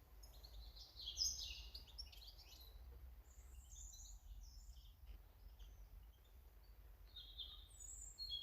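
Small garden birds chirping: a cluster of quick high calls in the first couple of seconds, a few scattered ones after, and a short burst near the end, over a steady low rumble.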